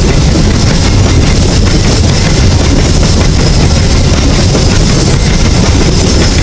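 Empty coal train wagons rolling past close by: a loud, steady rumble of steel wheels running on the rails.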